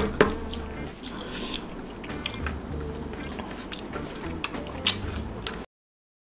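Close-miked eating by hand: chewing rice and fried pekasam, with small clicks and smacks over a low hum. The sound cuts off abruptly to dead silence shortly before the end.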